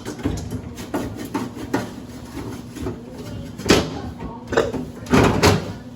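Irregular knocks and clatters of grocery items and containers being handled and set down while restocking the kitchen, with louder bumps near the end.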